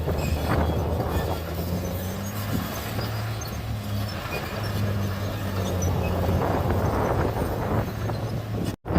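Bulldozer diesel engine running steadily at work, a low even drone with intermittent rattles. The sound cuts out abruptly for an instant near the end, then resumes.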